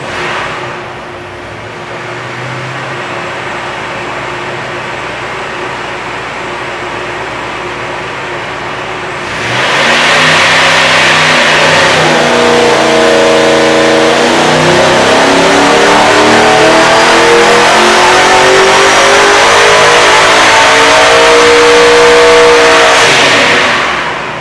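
Vortech V-7 YSi supercharged Chevrolet LS7 V8 on an engine dyno. It runs steadily for about nine seconds, then gets much louder as it goes into a loaded dyno pull, its pitch climbing slowly for some twelve seconds before the throttle closes and it drops back near the end.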